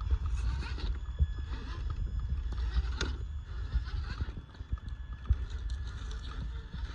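RC scale crawler truck driving over a rough trail: irregular clicks, scrapes and taps from its tyres and chassis on dirt and rocks over a faint steady whine, with a low rumble underneath.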